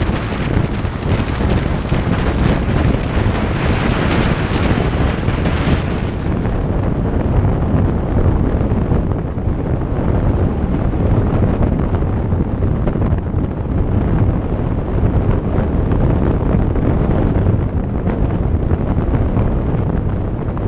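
Wind buffeting the microphone on a moving motorcycle: a loud, steady rush with no break.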